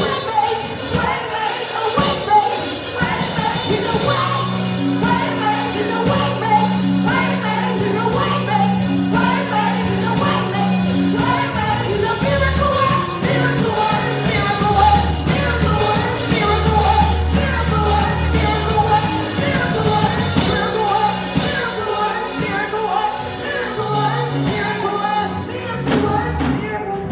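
Congregational worship music: singing over a band, with sustained bass notes coming in about four seconds in.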